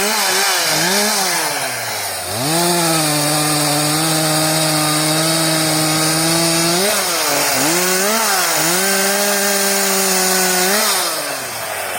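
Two-stroke chainsaw revving in short throttle blips, dropping toward idle about two seconds in, then held at a steady high speed through a long cut. A few more blips come in the middle, and it falls back toward idle near the end.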